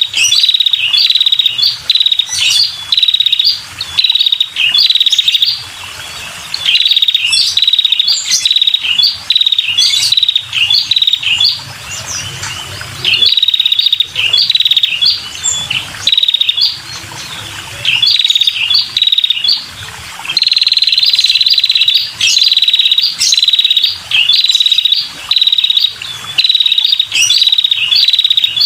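Female red-headed prenjak calling vigorously: a fast series of short, high-pitched trilled phrases repeated several times a second, broken by a few short pauses. It is the call used to lure male prenjak.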